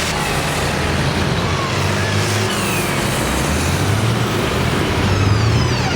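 Tractor engines running steadily as tractors drive past, with a couple of short high squeals that fall in pitch.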